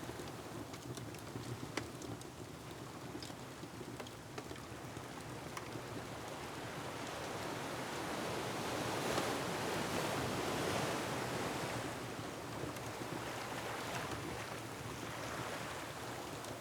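Ocean waves surging against a rocky shore with wind blowing, one wave swelling louder about halfway through, while a wood fire crackles with small scattered pops.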